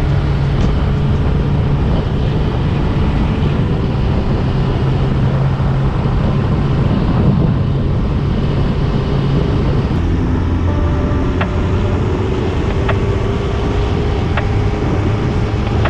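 Yamaha YZF-R1's inline-four engine running steadily under way, with wind and road noise. About ten seconds in the engine note drops to a lower pitch, and a few light ticks follow.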